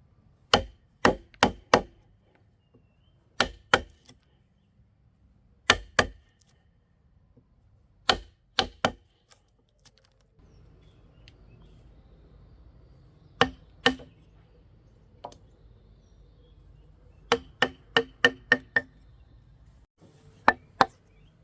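Wood being chopped with a blade: sharp strikes in short runs of two to six, about three a second, with pauses between the runs.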